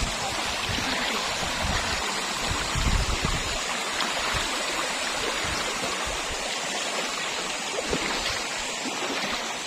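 Steady rush of water at a waterfall and its stream, with low rumbles in the first few seconds.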